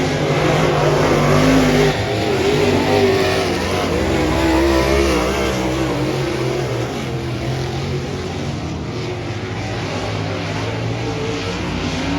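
A field of dirt modified race cars running at speed around the track. Several engines rise and fall in pitch together as they pass, loudest in the first few seconds and easing a little after about six seconds.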